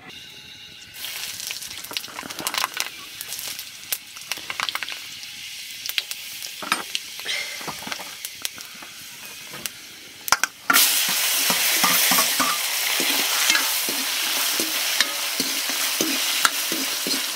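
Hot oil crackling and spitting in a black wok, then about ten seconds in sliced vegetables go into the oil and a loud, dense frying sizzle follows. A spatula clicks and scrapes against the pan as the food is stirred.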